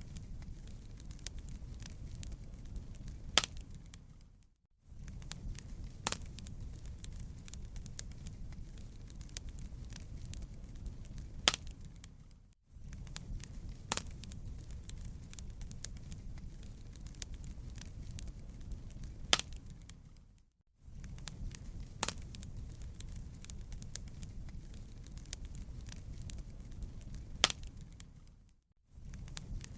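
Wood fire crackling in a fireplace: a steady low rumble with sharp pops and snaps scattered through it. It fades out and back in briefly about every eight seconds.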